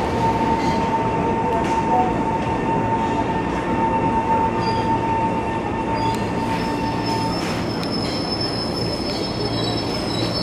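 KRL electric commuter train running at a station platform with a steady rumble. A steady whine runs until about seven seconds in, and high-pitched wheel squeal comes in from about six and a half seconds.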